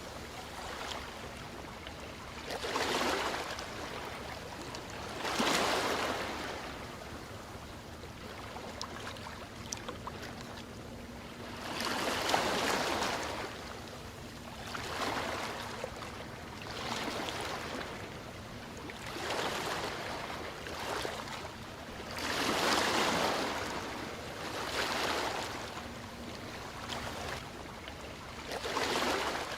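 Ocean waves washing onto a shore, the surf rising and falling in repeated swells every two to three seconds.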